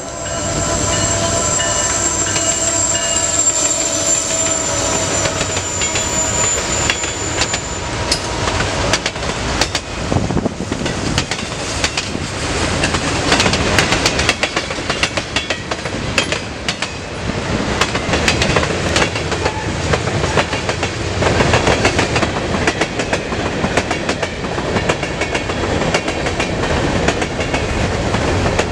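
Norfolk Southern manifest freight train rolling past, its wheels clicking and knocking over the rail joints with a steady rumble. A high steady squeal carries through the first several seconds and fades out.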